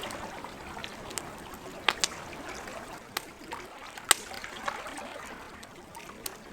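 Campfire crackling, with scattered sharp pops (the loudest about four seconds in), over a steady wash of lake water.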